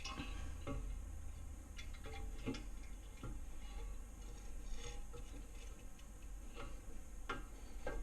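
Irregular light clicks and knocks of metal parts being handled, a dozen or so spread over several seconds, as the LS engine's nodular iron crankshaft is set down into the block's main bearing saddles. A steady low hum lies underneath.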